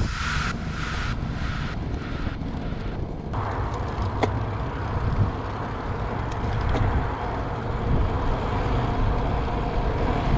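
Steady wind and road noise on a road bike's camera microphone while riding, with the tail of background music cutting off about three seconds in.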